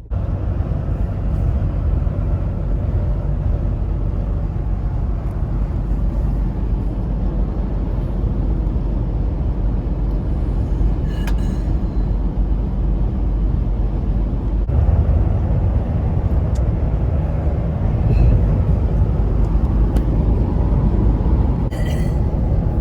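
Steady low rumble of a vehicle driving: road and engine noise, with a few faint clicks.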